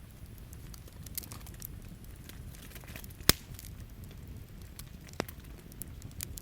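Wood campfire crackling, with scattered small ticks and two sharp pops, the loudest about three seconds in and another about five seconds in, over a steady low background noise.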